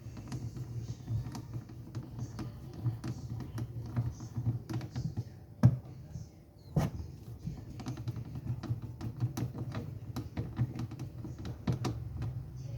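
Irregular small clicks and taps of hands working on washing machine parts, with two louder knocks about six and seven seconds in, over a steady low hum.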